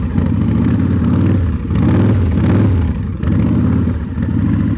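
2005 Victory Kingpin's 92-cubic-inch V-twin running through its exhaust just after a cold start, its level dipping briefly a couple of times. The engine is cold-blooded and needs to warm up.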